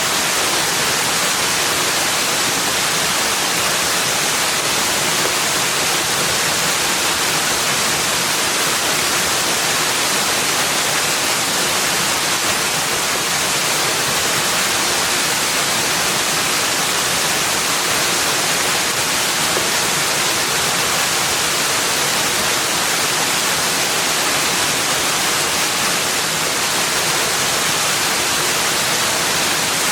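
Steady rushing water: an even, unbroken hiss that stays the same level throughout, with no separate splashes, calls or knocks.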